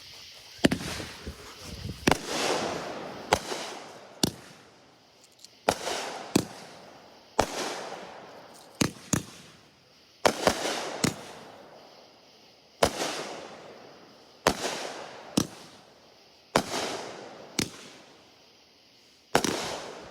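Consumer firework cake (multi-shot repeater) firing: a long series of sharp bangs, about one a second and often in pairs, each trailing off in crackle.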